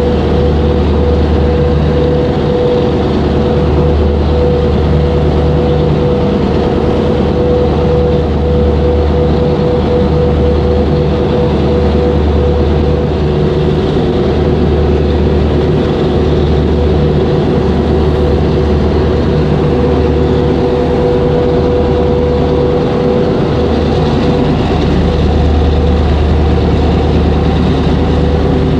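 Boat engine running steadily: a loud, deep hum with a steady higher tone over it.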